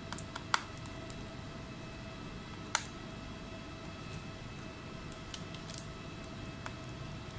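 Scattered light clicks and taps, a handful of them a second or more apart, over a steady faint electrical whine with a few thin high tones.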